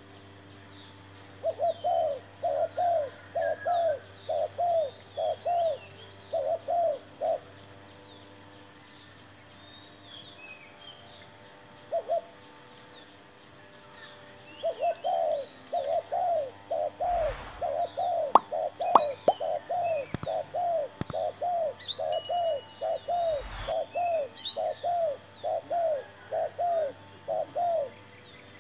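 Spotted dove cooing in a rapid run of short, repeated notes, about three a second. The first run stops about seven seconds in and a second starts about halfway through. Small birds chirp faintly above it, and a few sharp knocks and thumps come during the second run.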